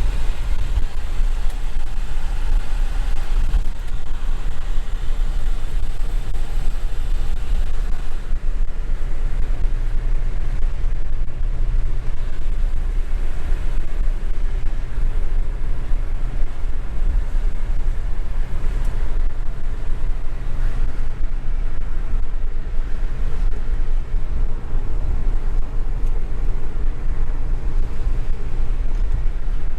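A 1968 Rover P5b's 3.5-litre V8 and road noise as the car drives along, a steady low rumble.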